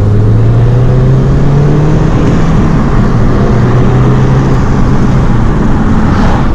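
Mini Cooper Clubman S turbocharged four-cylinder engine pulling as the car accelerates, its note rising slowly and then dropping a couple of times as it shifts up, over steady road noise.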